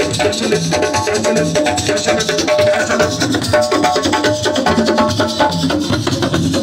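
Senegalese assiko band music: fast, steady drumming and rattling percussion with a pitched melodic line over it.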